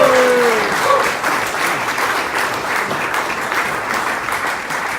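Audience applauding steadily in a large room. In the first half second the end of a man's long, drawn-out introduction call falls and fades into the applause.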